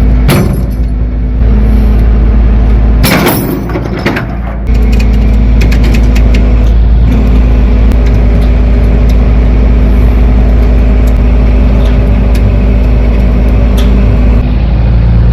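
Kenworth T800 deck truck's diesel engine running steadily, powering the winch that drags the sea can onto the deck. A couple of sharp knocks come in the first few seconds.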